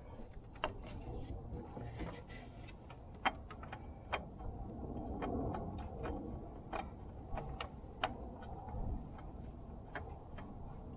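Scattered light clicks and taps at uneven intervals, over a low steady rumble.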